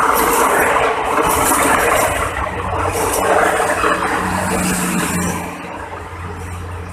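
Ex-JR 203 series passenger cars rolling past on the rails, a steady rumble and rattle of wheels with scattered clicks. It drops off about five and a half seconds in as the last car goes by. A low steady hum lies underneath from about two seconds in.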